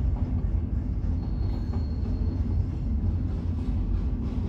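Freight train cars rolling steadily past, a continuous low rumble of steel wheels on rail.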